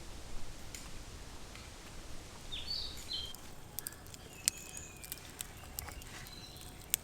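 Outdoor ambience in which a bird gives a few short, high chirps about halfway through, followed by scattered sharp clicks and ticks.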